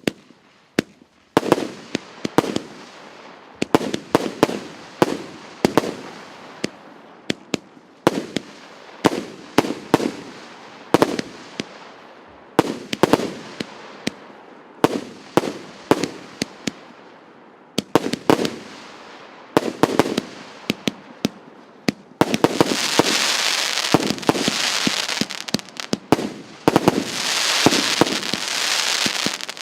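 A 1.2-inch consumer firework battery firing shot after shot, roughly one or two reports a second, each sharp bang trailing off. About three quarters of the way through, a dense, loud crackling sets in from crackling-star bursts and carries on under the shots.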